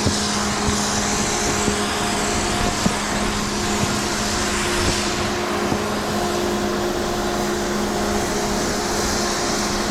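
Snowboard sliding and scraping over snow, with wind rushing over the microphone as the rider goes downhill, under a faint steady hum.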